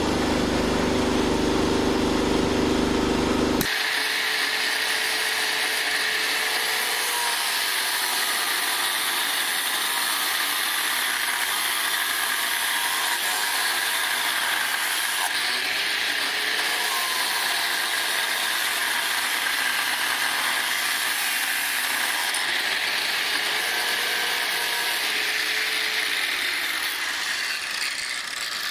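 A metal-working machine tool running. A low motor hum for about the first four seconds, then, after an abrupt change, a steady high hissing cutting noise for the rest, as a steel spacer is machined.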